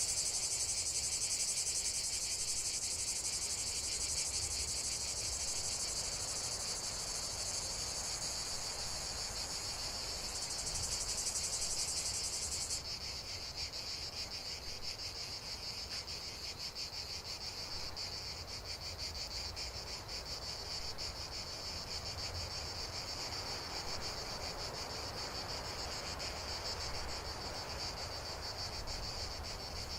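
A dense, steady chorus of insects chirping in a fast, high-pitched buzz. About 13 seconds in, the highest layer of the chorus stops and a slightly lower one carries on, over a faint low rumble.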